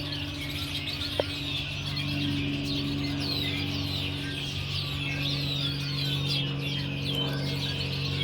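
Many small birds chirping at once in a dense, continuous chorus of short falling chirps. Underneath is a steady low hum, and there is a single sharp click about a second in.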